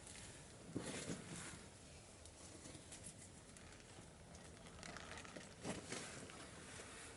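Small wood-stove fire crackling faintly, with scattered sharp pops and clicks. Two louder rustling bursts come about a second in and again near six seconds.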